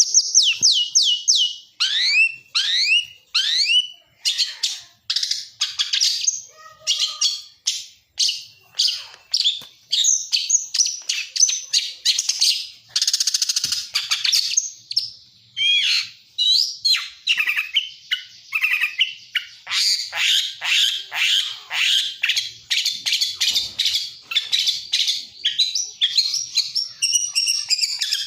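Songbird known to Indonesian bird-keepers as 'lacer' singing a long, varied song. It opens with a run of quick falling whistles, about four a second, then goes into rapid chattering trills and buzzy notes broken by short pauses.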